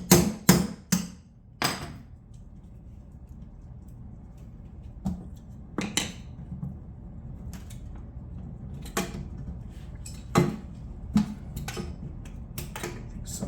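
Sharp metallic knocks and clanks from a two-compartment stainless steel undermount sink being worked loose from its epoxy beneath a granite countertop: a quick run of about five knocks at the start, then single knocks every second or few.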